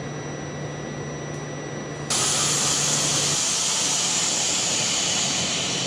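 A sudden loud hiss of air starts about two seconds in and holds, slowly fading, typical of a train venting compressed air from its brakes at the platform. Beneath it, a steady low hum stops about three seconds in.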